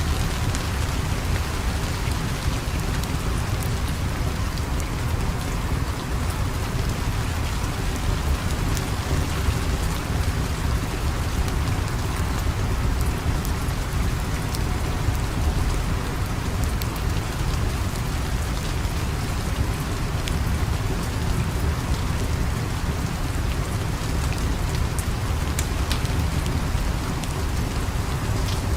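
Steady rain falling, with a deep even rumble underneath and scattered sharp little clicks.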